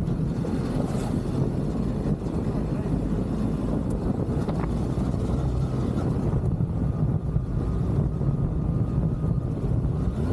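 Motorcycle engine running under way, a steady low rumble, with wind buffeting the microphone.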